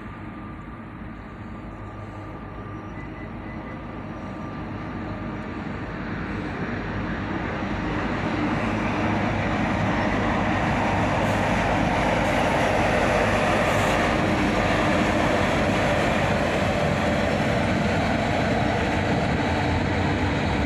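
Norfolk Southern freight train led by EMD SD70ACe and GE Dash 9 diesel locomotives approaching, its engine drone and rolling noise growing louder over about eight seconds, then holding steady as the train passes.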